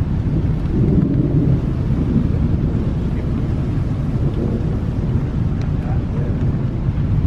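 A low, steady rumble of thunder rolling from a supercell thunderstorm, swelling slightly about a second in, with wind buffeting the microphone.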